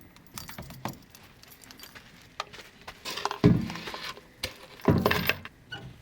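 Light metallic clinking and rattling with scattered clicks, broken by two heavy thumps about three and a half and five seconds in.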